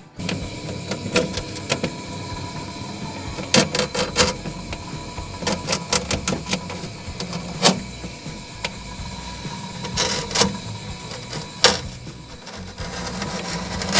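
Irregular clicks and knocks of tools and fittings being handled over the steady hum of a running refrigerator compressor.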